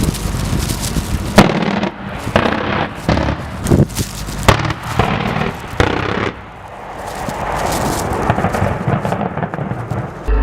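Pantsir air-defence system weapons fire: a long run of sharp, irregularly spaced bangs and blasts over a continuous rumble.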